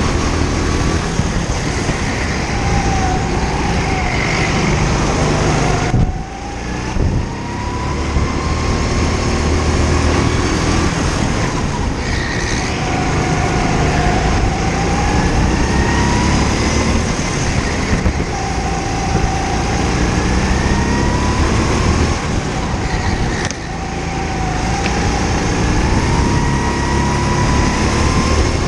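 A go-kart engine under hard acceleration, its pitch climbing again and again. It drops sharply about 6 seconds in and again near the end as the throttle is lifted, then rises once more.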